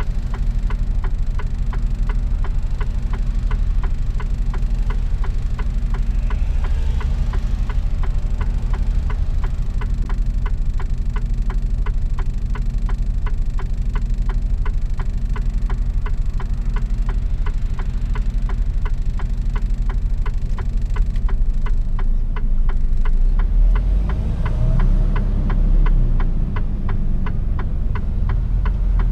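Mercedes-Benz Actros truck's diesel engine running, heard inside the cab, with a steady fast ticking throughout. The engine gets a little louder and shifts in pitch for a few seconds about three quarters of the way through.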